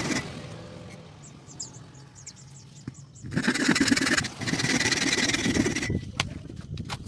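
Small electric motor, a sewing-machine motor used as a drill, running in two bursts: it winds down over a few seconds after the first, runs again for a couple of seconds, then a few sharp clicks near the end.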